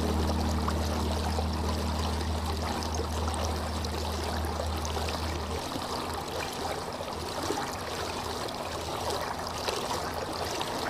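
Running water of a stream, flowing and trickling steadily. A soft low sustained tone sounds under it and stops a little past halfway, leaving only the water.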